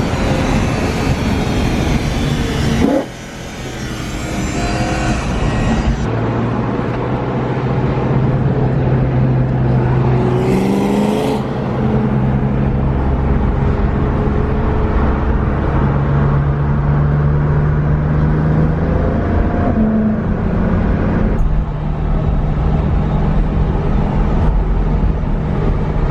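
A car driving at road speed, its engine note rising and dropping through gear changes, with a sharp dip in level about three seconds in. Constant road and wind noise runs underneath.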